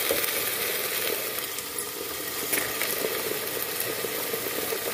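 Ground masala paste frying in hot mustard oil in an open aluminium pressure cooker: a steady sizzle with small crackles.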